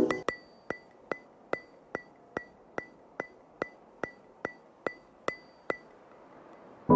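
Steady clock-like ticking, about two and a half sharp ticks a second, each with a short high ring. It stops about a second before soft piano music comes in at the very end.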